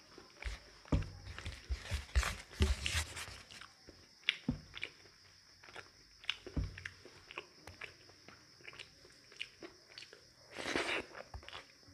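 A person chewing a meal of rice and curry close to the microphone: irregular wet clicks and smacks, busiest in the first few seconds, with a short rustling sound near the end.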